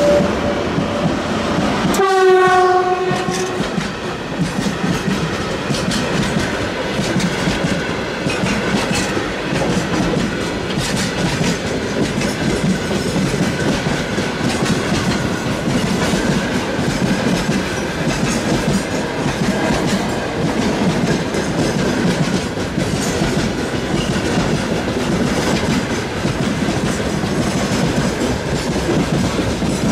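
Mixed freight train hauled by a 3ES5K electric locomotive rolling past, its wagons' wheels clattering steadily. A short train horn blast sounds about two seconds in.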